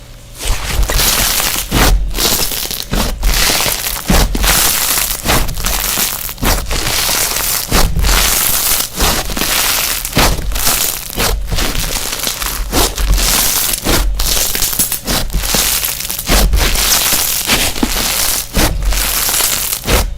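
Slime being squeezed and crunched by hand: a dense crackling crunch broken by short pauses every second or so.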